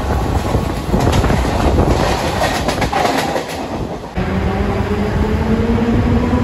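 Mumbai suburban electric local train running, its wheels clattering over the rails. After about four seconds a whine sets in and slowly rises in pitch.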